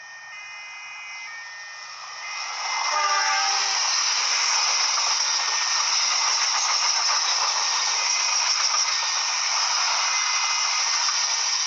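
A train's horn sounds during the first few seconds, then a train passes close by at speed: a loud, steady rush of wheels on rails.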